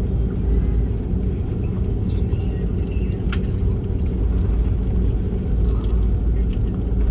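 Steady low rumble of an Airbus A330-300 heard from inside the passenger cabin, with faint cabin rattles and a sharp click about three seconds in.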